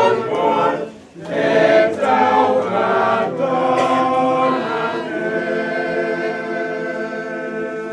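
Choir singing, with a brief break about a second in, then holding a long final chord.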